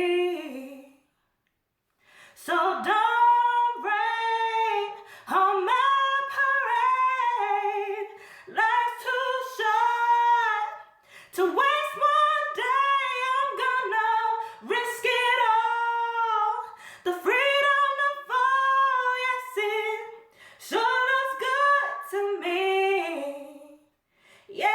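A woman singing alone with no accompaniment, in sung phrases of a second or two separated by short breaths.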